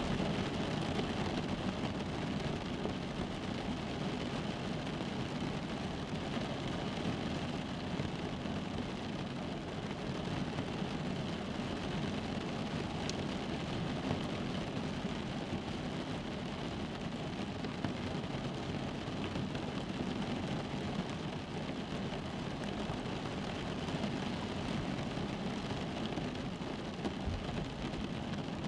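Steady rain falling on a car's roof and windows, heard from inside the car as a dense, even wash of noise, strongest low down.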